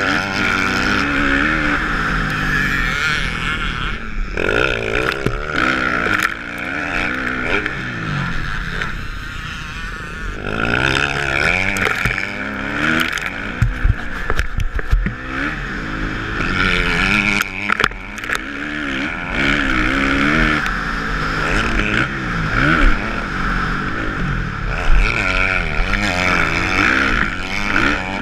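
Kawasaki motocross bike's engine revving up and falling off over and over as it is ridden around a dirt track, with a few sharp knocks along the way.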